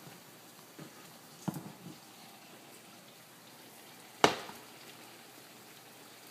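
Johnny cakes frying in oil in a skillet, a low steady sizzle, with a few light clicks of a fork against the pan and one sharp knock about four seconds in.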